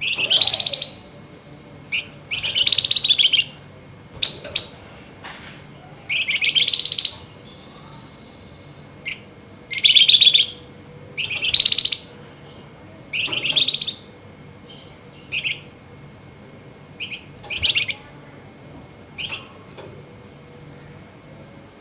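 Flamboyan songbird giving its harsh, scratchy 'nyerecet' chatter in loud, high bursts of under a second, repeated every one to two seconds, growing shorter and weaker toward the end.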